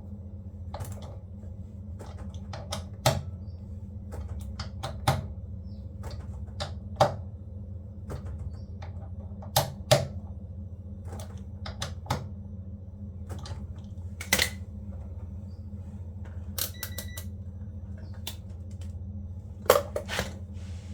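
Irregular sharp clicks and knocks of small parts and tools being handled during a washing machine repair, over a steady low hum.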